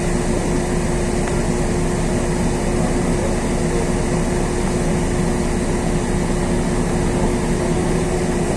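LiAZ 6213.22 articulated city bus heard from inside the passenger cabin, its engine and drivetrain running with a steady drone and a constant whine.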